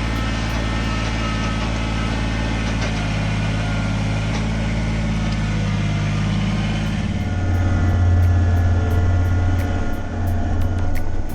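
Kubota BX25 sub-compact tractor's diesel engine running steadily. About two-thirds of the way in, its low drone grows louder as the engine takes on more load.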